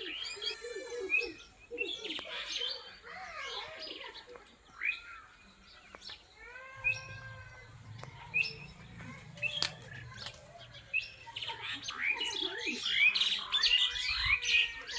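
Several wild forest birds chirping and calling over one another, with short quick notes that thin out mid-way and grow busier over the last few seconds.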